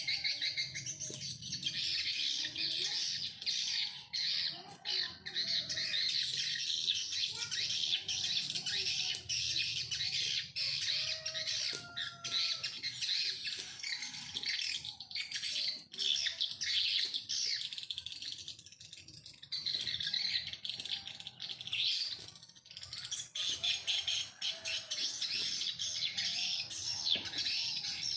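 A dense, continuous chorus of many small birds chirping and squawking in a steady high chatter, with scattered lower calls among them.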